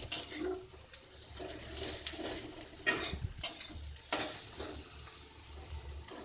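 Sliced onions frying in oil in a metal kadai, sizzling softly while a metal slotted spatula stirs and scrapes against the pan, with a few sharper scrapes a few seconds in. The onions have finished frying and are browned.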